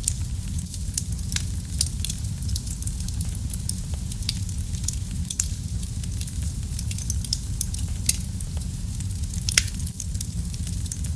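Wood fire burning in a fireplace: a steady low rumble of the flames with irregular crackles and sharp pops from the burning logs. A few louder pops stand out, about two seconds in, about eight seconds in and near the end.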